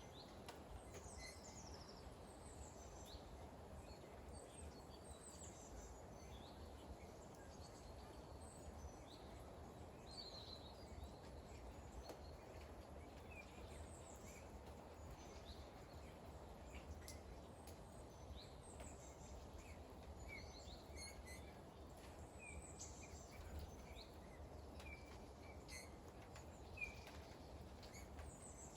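Light rain falling in a faint, steady hiss, with small birds chirping in short, high calls scattered throughout and a few sharp drip-like ticks.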